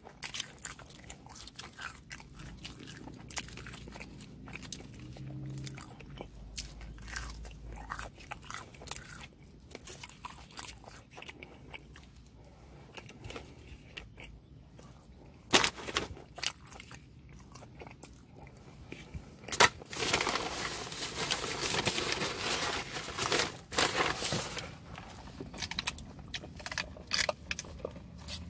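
Close-up eating sounds of a man chewing and biting fast food, with many small wet mouth clicks, and a louder noisy stretch of about five seconds some two-thirds of the way through.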